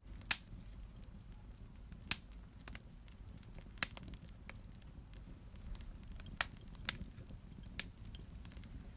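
Wood fire burning in a fireplace, crackling, with sharp irregular pops over a low steady rumble of flame.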